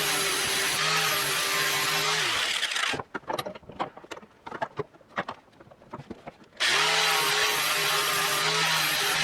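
A handheld power tool's motor runs steadily, is switched off about two and a half seconds in and winds down. For a few seconds there are only scattered clicks and knocks, then it is switched back on about two-thirds of the way through, spins up and runs steadily again.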